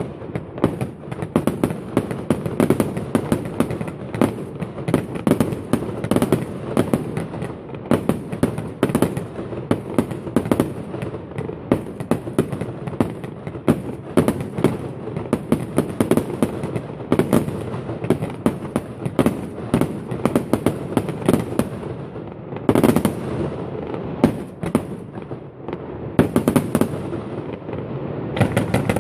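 Aerial fireworks display: a dense, continuous barrage of bangs and crackling, with a louder run of bangs about three quarters of the way through.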